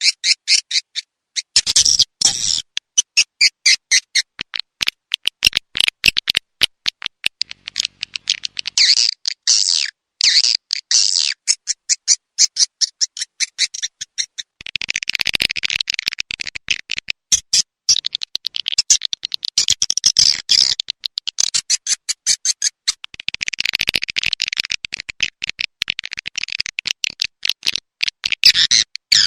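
Swiftlet lure recording: rapid twittering of swiftlets, quick high chirping notes in dense runs broken by short gaps, the kind of call sound played to draw swiftlets into a nest house.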